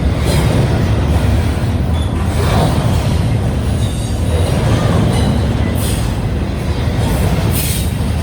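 Double-stack intermodal container cars rolling past with a steady, loud low rumble of steel wheels on rail. A couple of brief high squeals cut through in the second half.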